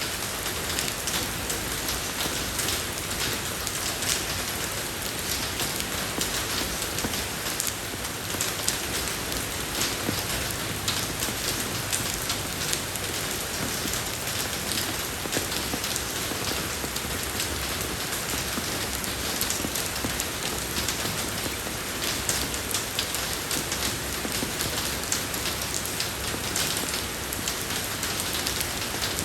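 Steady rain falling on a road surface, an even hiss dense with fine drop ticks.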